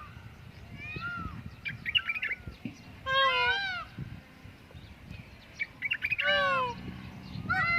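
Indian peafowl calling: loud wailing calls, each arching up and down in pitch, several of them overlapping from more than one bird. Clusters of quick short notes come just before the loud calls about three and six seconds in, and another call starts near the end.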